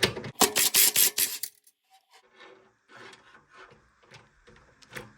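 Ratchet wrench with a half-inch socket clicking through a run of quick strokes in the first second and a half, then quieter metallic clicks and scrapes as parts are handled around the washer's drive motor.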